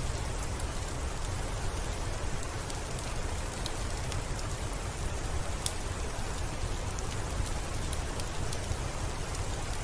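Steady rain falling with a low rumble, sprinkled with scattered sharp pops and crackles from a wood fire.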